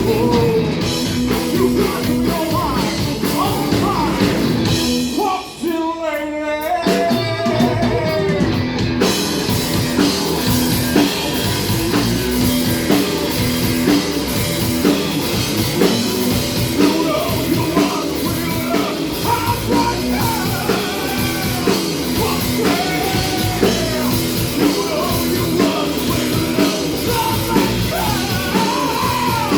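Rock band playing with a singer. The band drops out briefly about five seconds in, leaving one sliding line, then comes back in full a few seconds later.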